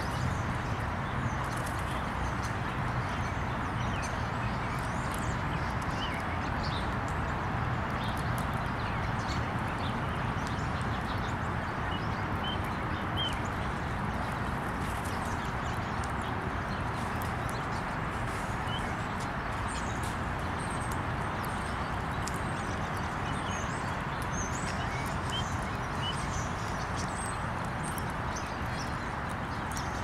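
Scattered short bird chirps over a steady outdoor background hiss and rumble, with occasional light clicks.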